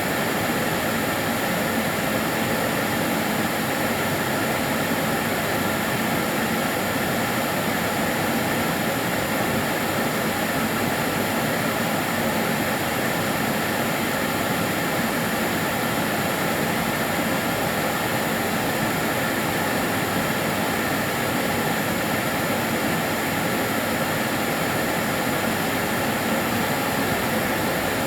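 Karcher DS 6 Premium water-filter vacuum cleaner running steadily, a constant whooshing motor drone with a faint high whine.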